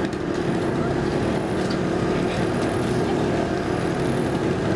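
A car engine running steadily with an even drone.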